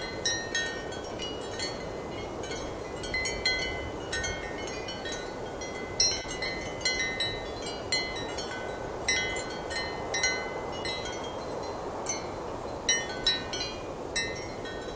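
Ceramic wind chimes clinking irregularly in strong wind, short bright ringing tones over a steady rush of wind.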